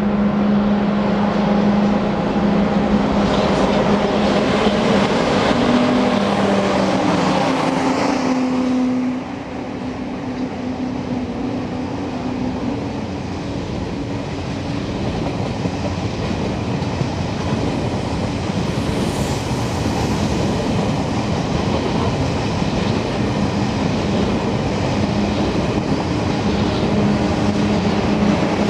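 Eurostar Class 373 train passing at speed. A steady hum from the leading power car drops away about nine seconds in, leaving the even rush of the carriages' wheels on the rails. The hum returns near the end as the rear power car comes by.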